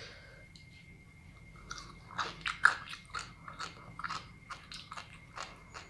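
A mouthful of sea grapes (Caulerpa seaweed) chewed close to the microphone. A quick run of small crisp pops and crunches starts about a second and a half in, loudest about a second later.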